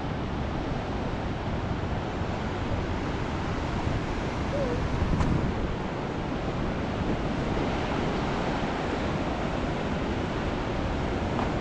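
Steady rushing of a river in flood, fast water running without a break, with some wind noise on the microphone.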